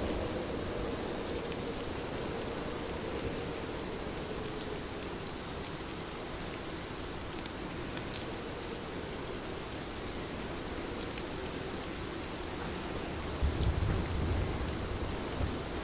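Heavy rain falling steadily, a dense even hiss with scattered drop ticks. A brief low rumble swells about three-quarters of the way through.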